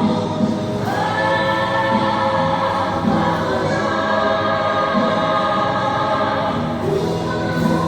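Recorded labor song: a choir of voices holding long sustained notes over instrumental accompaniment, moving to new notes near the end.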